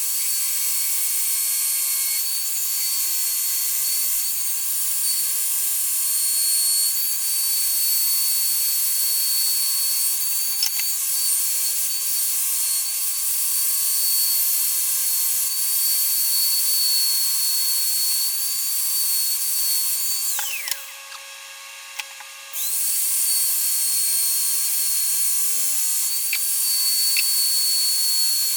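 Small high-speed rotary tool running with a steady high-pitched whine. It spins down about two-thirds of the way through, stops for a couple of seconds, then starts up again.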